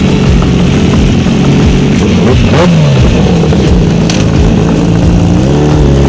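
Motorcycle engine running while riding. Its pitch drops about two and a half seconds in, then climbs again near the end as the revs come back up.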